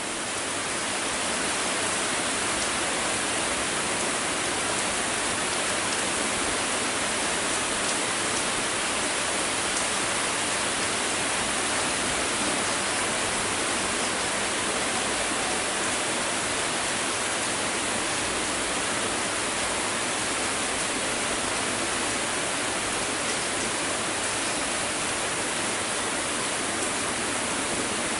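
Heavy rain falling: a dense, steady hiss of a downpour that swells over the first two seconds and then holds even.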